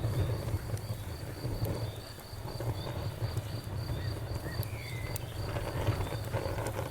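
Campfire burning with a low steady rumble and scattered faint crackles, while a cricket chirps in an even pulse of about three chirps a second.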